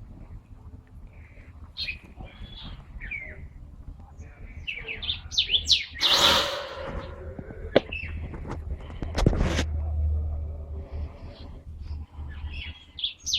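Captive songbirds chirping and calling, several short overlapping calls. About six seconds in there is a loud rustling burst, and a few sharp clicks follow a couple of seconds later.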